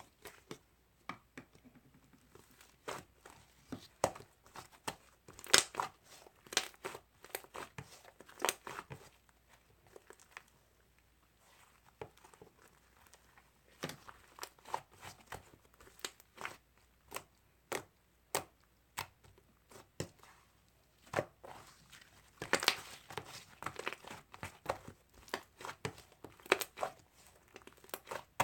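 Slime being squeezed, pressed and stretched by hand, giving irregular clusters of sharp clicks and crackling pops, with a couple of quieter pauses.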